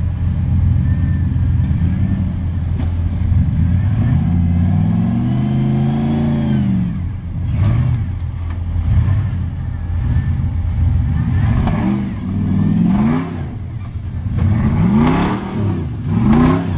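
Rock bouncer buggy engine revving in bursts: one long rise and fall of revs about five seconds in, then several quick blips of the throttle near the end.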